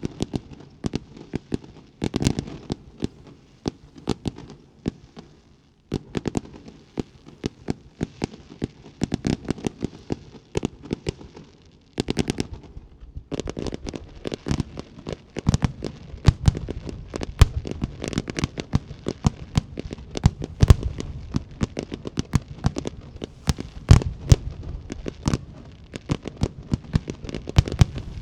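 Jinli Fireworks aerial display: rapid crackling and popping shell bursts, with short lulls, building about halfway through into a dense, continuous barrage of cracks punctuated by heavy booms.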